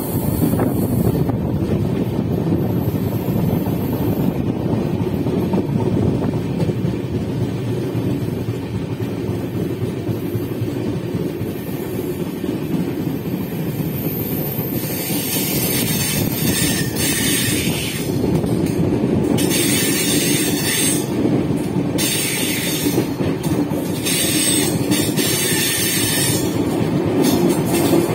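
Steady rumble of a moving express passenger train's wheels on the track, heard from the open coach doorway. About halfway through, a high-pitched wheel squeal comes and goes in four bursts.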